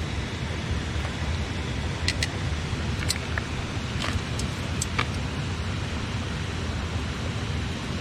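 Wood campfire crackling, with a scattering of sharp pops and snaps between about two and five seconds in, over the steady rush of a river.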